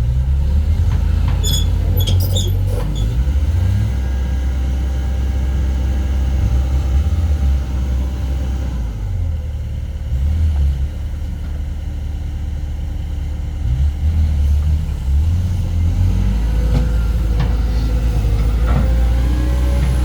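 Cat 320D2 GC excavator's four-cylinder ACERT diesel engine running with a deep drone that rises and falls in strength. A few light metallic clinks sound about two seconds in.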